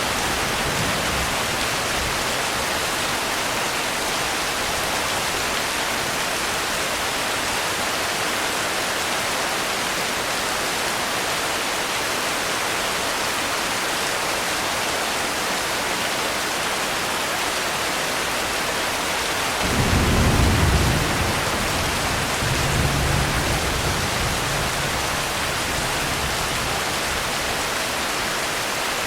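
Steady heavy rain falling, with a low rumble of thunder about twenty seconds in and a smaller rumble a few seconds later.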